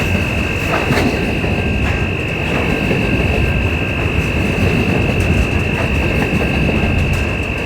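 A train running on rails: a steady heavy rumble with a steady high-pitched whine and scattered clicks.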